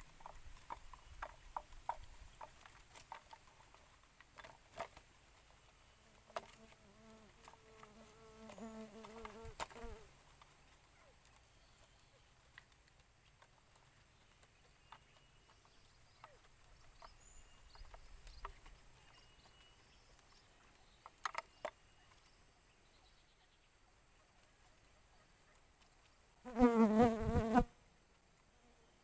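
Insects chirping in a fast, even pulsing trill over a steady high whine, with scattered sharp clicks in the first part. A low, wavering call sounds for a few seconds early on, and a louder one about a second long comes near the end.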